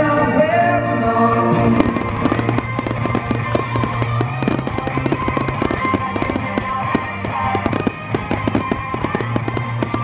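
Fireworks display: aerial shells bursting and crackling, many sharp pops a second, over music.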